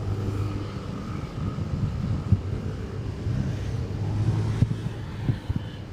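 Motorcycle engine running steadily while riding, a low even hum, with wind buffeting the action camera's microphone in irregular thumps.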